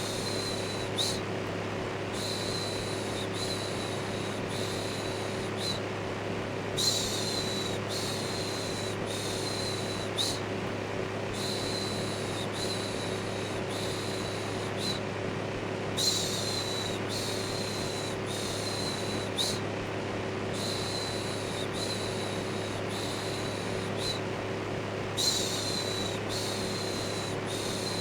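Electric fan running with a steady hum, overlaid by a long run of repeated human "shhh" shushing, one hissing shush after another with short breaks between them.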